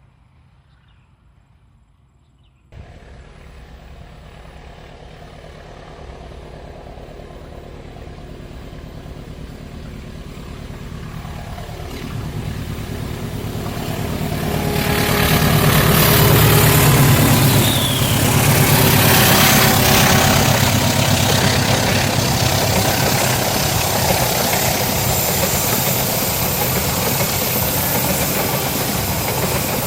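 A diesel-hauled passenger train approaching, its locomotive engine growing steadily louder, then the train passing close with loud wheel and rail noise from about the middle on.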